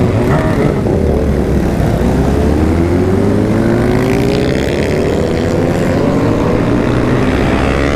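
Motorcycle engine running under way, its pitch rising slowly and steadily from about two seconds in as it accelerates, over a loud low rumble.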